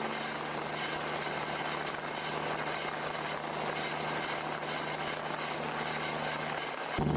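Heavy truck diesel engine running at a steady low note under a constant hiss; just before the end it suddenly gets louder and fuller.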